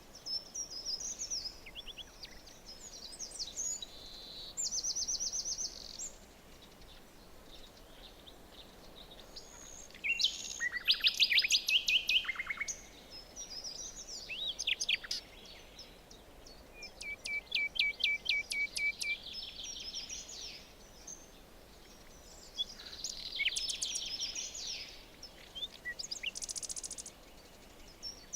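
Songbirds singing in turn: quick trills and rapid runs of sharp notes, loudest about ten to twelve seconds in, over a faint steady hiss.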